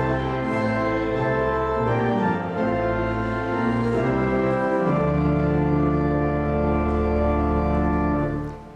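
Church organ playing the closing chords of a hymn, ending on a long held final chord that stops shortly before the end.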